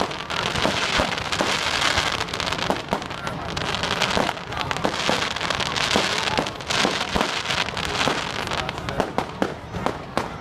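Fireworks going off: a continuous crackling hiss packed with sharp pops and bangs, thickest in the first couple of seconds and again in the middle, with sparser bangs near the end.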